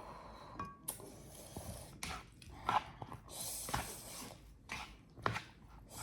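Close-miked eating sounds of rice and chicken curry: chewing, with scattered short clicks and brief noisy bursts.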